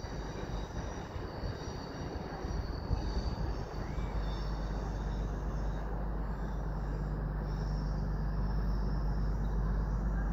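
Passenger train approaching along the track with a steady rumble that grows louder, and faint high-pitched wheel squeal in the first half.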